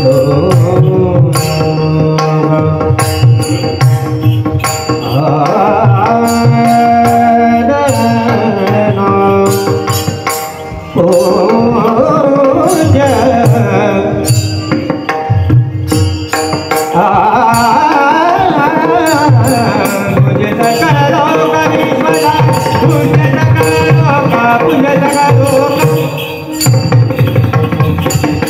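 Devotional abhang singing: a solo voice holds long, wavering melodic lines over hand-drum accompaniment and a dense, steady beat of percussion strokes. The music briefly drops away twice, about eleven seconds in and near the end.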